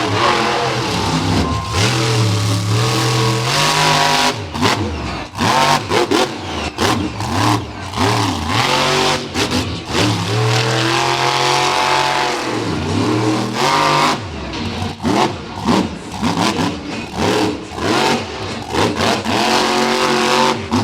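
Monster truck engine revving hard in repeated rising and falling surges, with abrupt throttle chops between them, as the truck is driven through two-wheel tricks.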